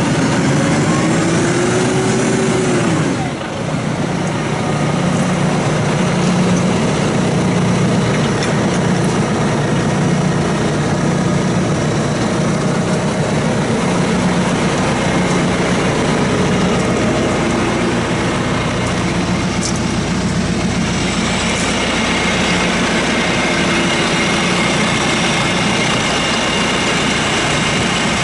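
John Deere 5115ML tractor's diesel engine running steadily at idle, with a brief rise and fall in pitch in the first few seconds.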